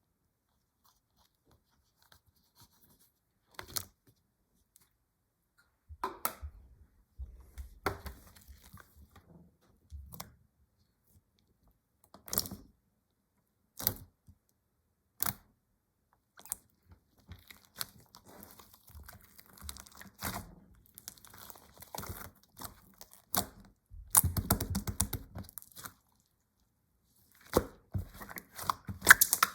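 Slime being pressed and stretched by hand: scattered sharp pops at first, then denser runs of popping and crackle, loudest near the end.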